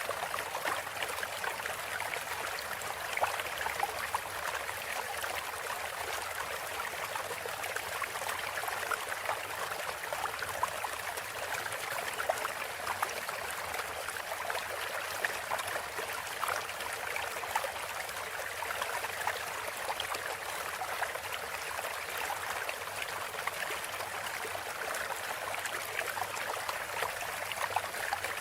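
Running water from a steady, trickling stream, flowing on without a break.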